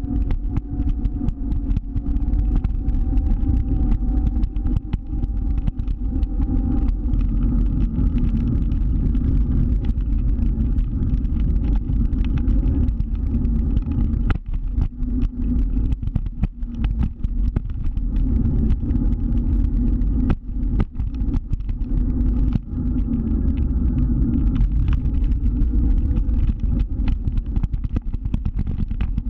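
Motor scooter running under way, its engine note drifting slightly up and down over a heavy, steady low rumble.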